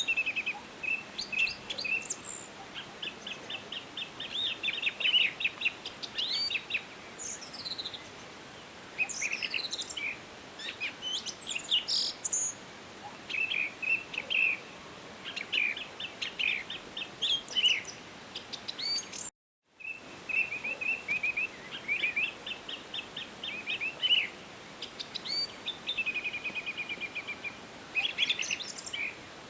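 Forest birds singing and calling: overlapping chirps, rapid trills and quick falling whistled notes over a faint steady hiss. The sound cuts out completely for a moment about two-thirds through.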